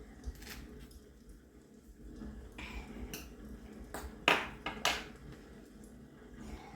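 Cutlery and dishes clinking during a meal: a few separate sharp clicks, the loudest a little past four seconds in.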